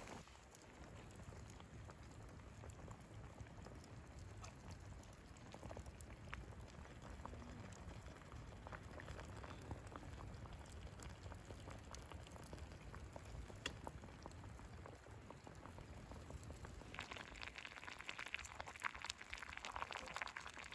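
Faint bubbling and popping of a pot simmering over a campfire, scattered small clicks over a low steady rumble, with a denser stretch of sizzling crackle near the end.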